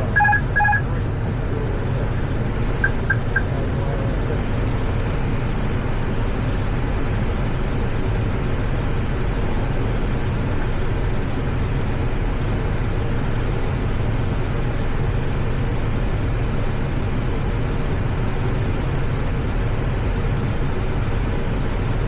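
Steady rumble of airflow and engine noise on the flight deck of an Airbus A320 on final approach. Three short electronic beeps sound right at the start, and three quicker, higher pips about three seconds in.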